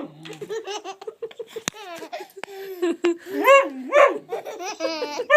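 A baby belly-laughing in a long run of quick, repeated laughs.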